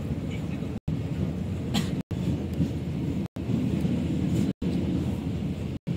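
DEMU passenger train running, heard as a steady low rumble. It is broken by short silent gaps about every second and a quarter.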